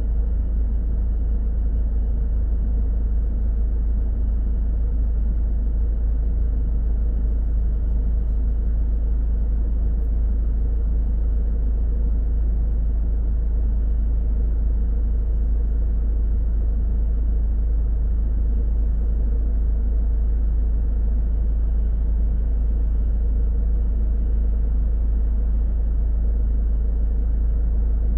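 Car driving at a steady speed: a low, steady rumble of road and engine noise, with a faint constant hum above it.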